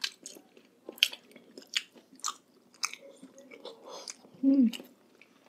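Close-miked eating sounds: chewing, with sharp crisp crunches of bites about every half second to second. A brief low hum about four and a half seconds in is the loudest sound.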